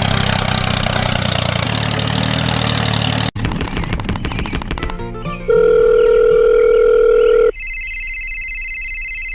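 A small motor runs steadily for about three seconds and is cut off abruptly. Then come a quick run of clicks, a loud steady telephone-like tone for about two seconds, and a high pulsing ring like a phone ringing.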